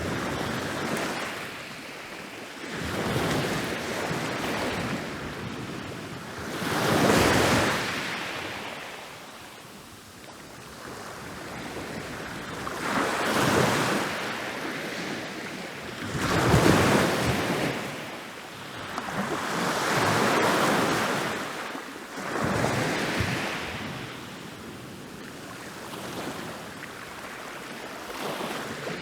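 Ocean waves rolling in and breaking on a beach, the surf swelling and falling away every few seconds, with the loudest crashes about seven and seventeen seconds in.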